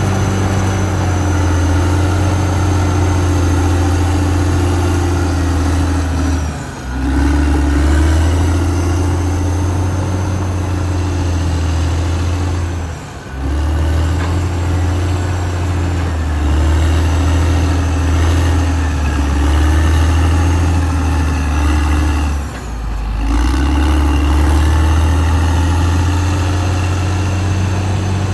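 Caterpillar D6R XL bulldozer's diesel engine running steadily and loudly, its note dropping briefly three times before picking up again.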